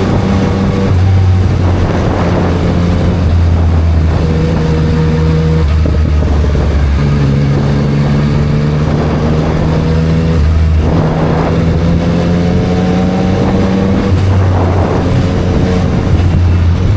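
2024 Yamaha MT-09 SP's inline-three engine through a Spark triple-exit full exhaust system, ridden under changing throttle. Its note holds steady, then steps up or down in pitch several times and rises smoothly in places. A steady rush of wind and road noise runs underneath.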